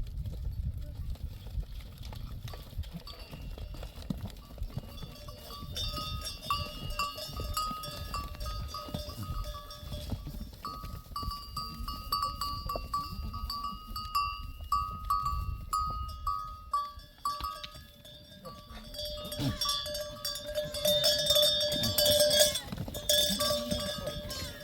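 Small livestock bells on a flock of sheep and goats clinking again and again as the animals move, getting louder and busier near the end, over a low rumble.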